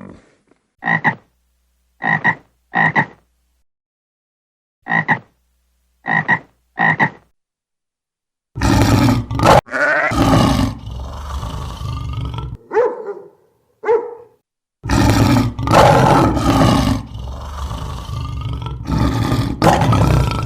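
Animal calls: six short calls in two sets of three, then about a second of quiet, followed by longer, louder, rough animal calls with shifting pitch that last to the end.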